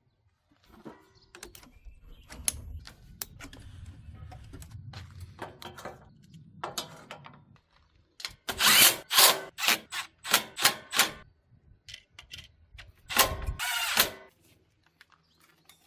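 A power drill-driver run in a series of short bursts, then one longer run, with handling clatter of metal parts before it.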